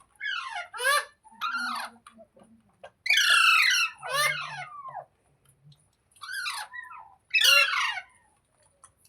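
Indian ringneck parrot (rose-ringed parakeet) giving loud, high-pitched squawking calls, about six in all, mostly in pairs, each falling in pitch; the loudest comes about three seconds in.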